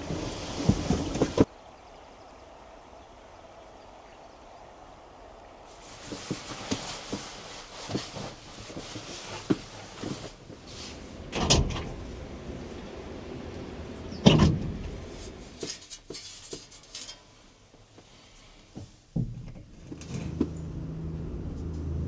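Handling sounds around a vehicle: scattered knocks, then two loud thumps like vehicle doors shutting midway. Near the end a vehicle engine starts and runs steadily.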